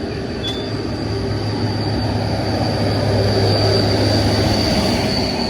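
A heavy road vehicle, a truck or bus, passing with a deep engine drone that swells to its loudest about four seconds in and then eases off, over a steady high-pitched whine.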